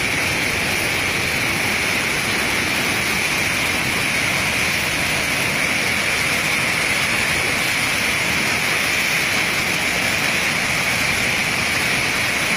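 Loud, steady rush of floodwater pouring through opened sluice shutters.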